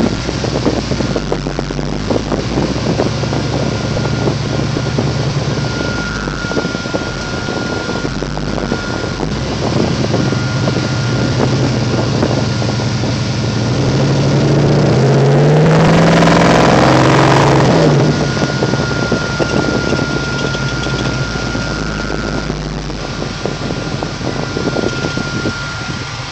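1971 Chevelle SS V8 engine heard from inside the cabin while driving, running with a steady exhaust rumble. About 14 seconds in the revs climb in a rising pull, the loudest part, and drop back off a few seconds later.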